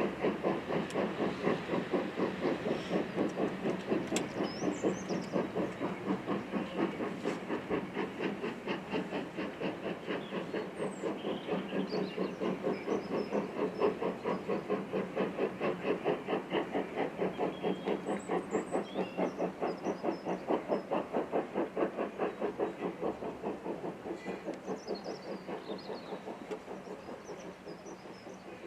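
Steam locomotive working along the line, its exhaust giving quick, even beats with a hiss of steam, slowly fading as it draws away.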